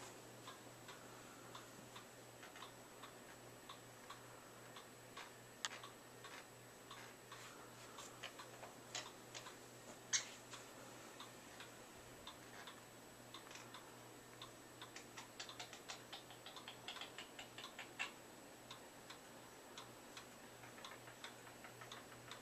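Faint, irregular clicks and taps from a pet bird moving about in its cage, with a few louder taps and a quicker run of clicks in the second half.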